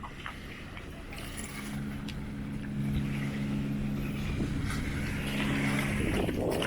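Boat engine running with a steady low hum that comes up about a second and a half in and grows louder, over wind and water noise. A short rush of noise near the end.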